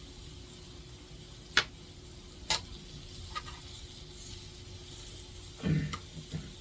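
A few separate sharp clicks or taps, then a duller knock with a short clatter near the end, over a faint steady hum.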